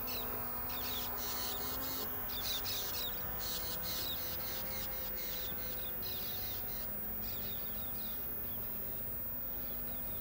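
Birds chirping in quick short calls, thickest in the first few seconds and thinning out later, over a faint steady hum.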